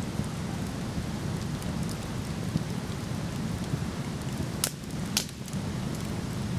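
Wood fire crackling over the steady rush of a waterfall, with two sharp pops about half a second apart near the end.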